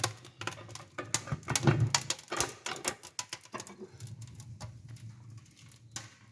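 Freshly lit wood fire crackling in a brick stove firebox, with irregular sharp snaps that grow sparser toward the end.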